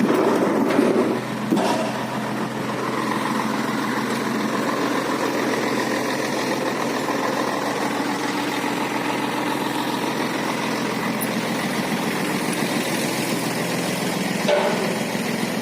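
Scania truck's diesel engine running steadily, with a louder stretch in the first couple of seconds.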